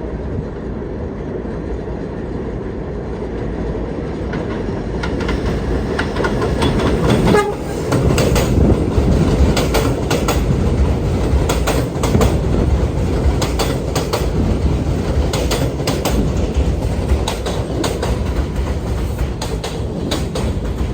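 New York City subway train running through the station, with a steady low rumble and wheels clicking over the rail joints. The clicking starts about five seconds in and gets louder as the train comes close.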